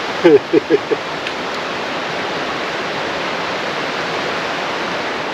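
Steady rushing noise throughout, with a brief bit of voice, a short exclamation or laugh, in the first second.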